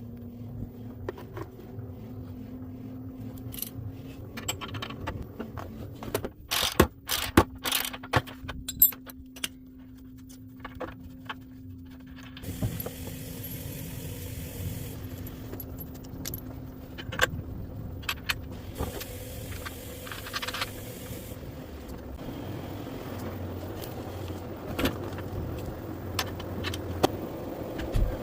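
Wrenches and metal dryer hardware clinking and knocking as a worn drum roller is unbolted and replaced, in many sharp clinks, densest a quarter of the way in, over a faint steady hum during the first half.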